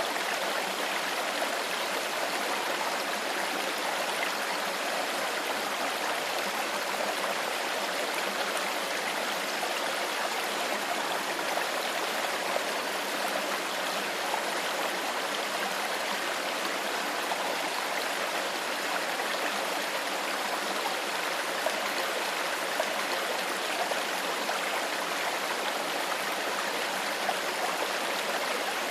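Stream water flowing and babbling steadily, an even rush with no breaks.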